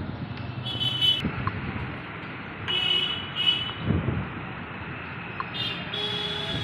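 Street traffic with vehicle horns honking: several short beeps, then a longer one near the end, over a steady traffic hiss.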